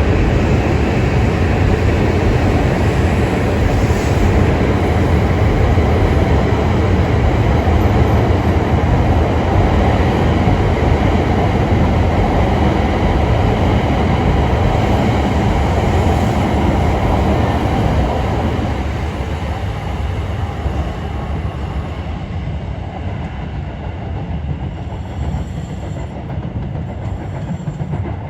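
Shinkansen train running past the platform: a loud, steady rushing rumble of wheels and air that fades away gradually over the last ten seconds or so.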